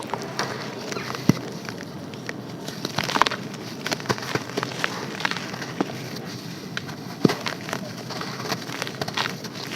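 Compacted sand and charcoal chunks being crushed and crumbled: a continuous gritty crackle with irregular sharper snaps, a few of them louder.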